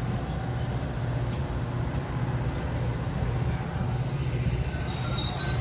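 Metra commuter train running past with a steady low diesel rumble, and steel wheels beginning to squeal on the rails near the end.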